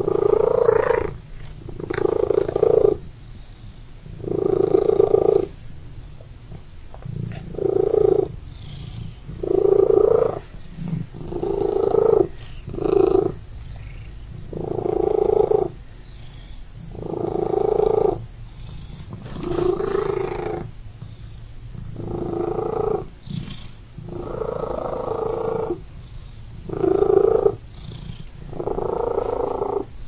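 A cat purring in long rhythmic pulses, about one every two seconds, over a steady low rumble.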